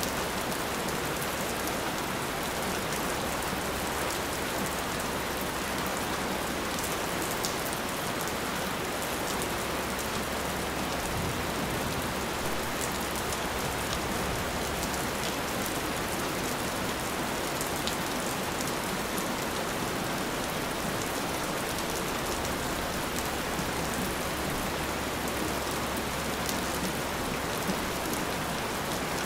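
Steady rain falling on a surface, with scattered sharp drop ticks. Even and constant.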